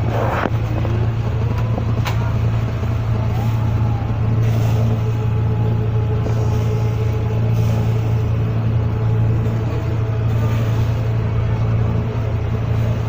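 Vega 2 tourist boat's engine running steadily under way, a constant low drone heard on board.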